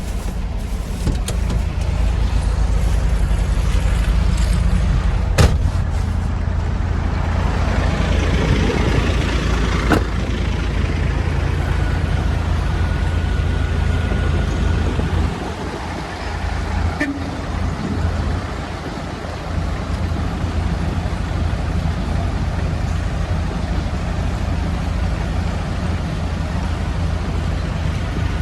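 Dump truck's diesel engine running steadily with a deep hum, with two sharp clicks a few seconds in and a dip in level about halfway through.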